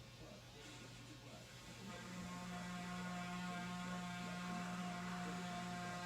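Pressure washer running with a steady hum, stepping up louder about two seconds in and then holding steady.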